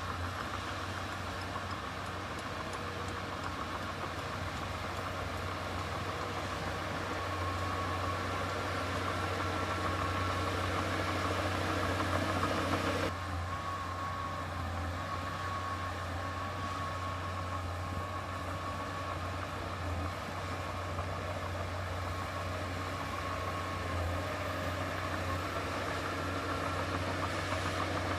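Heavy diesel earthmoving machinery running steadily, a constant low engine note with a thin steady whine above it. The sound changes abruptly about halfway through.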